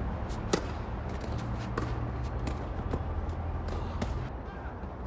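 Tennis ball struck by rackets and bouncing on a hard court during a rally: a string of sharp pops, the clearest about half a second in, over a steady low hum.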